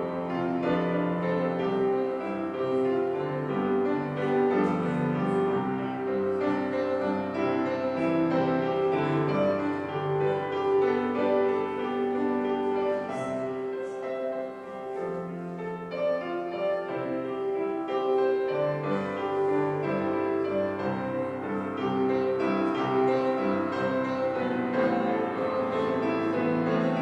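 Solo piano playing a slow prelude of held chords and melody notes.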